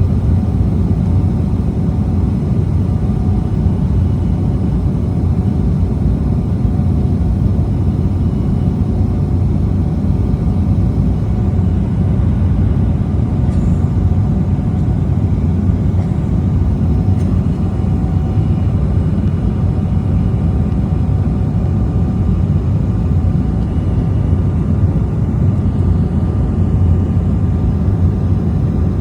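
Steady low rumble of jet cabin noise inside an Embraer E190 airliner.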